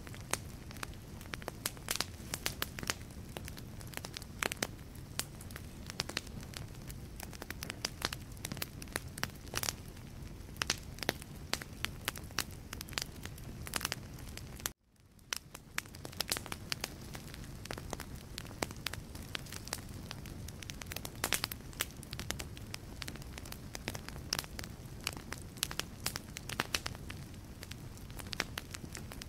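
Wood logs burning in a fireplace: dense, irregular crackling of the wood over a steady low rumble of the flames. About halfway through, the sound cuts out abruptly for an instant and then fades back in.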